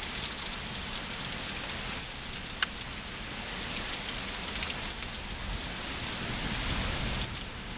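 Heavy rain pouring down: a steady, dense hiss of drops striking surfaces close by, with one sharper tap about two and a half seconds in.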